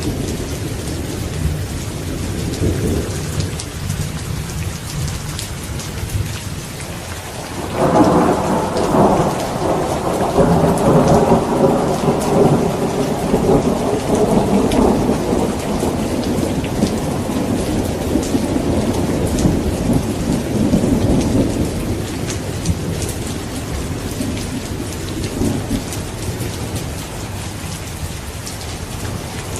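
Thunderstorm: steady heavy rain falling, with rolling thunder that breaks in sharply about eight seconds in and rumbles on, slowly fading over the following ten seconds or so.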